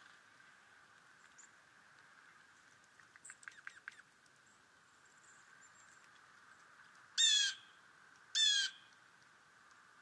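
Wild birds calling: a quick run of short chirps about three seconds in, then two loud, harsh calls a little over a second apart near the end.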